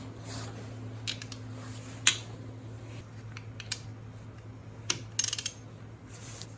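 Scattered sharp metallic clicks and clinks of tools and parts being handled, with a quick run of about five clicks about five seconds in, over a steady low hum.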